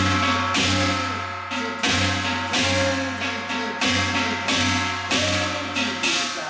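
Korean two-headed drum (janggu) struck with sticks on both heads in the yanggojang style, playing a slow gutgeori rhythm: evenly spaced strokes about two-thirds of a second apart, each a sharp crack over a low ringing boom, some louder than others.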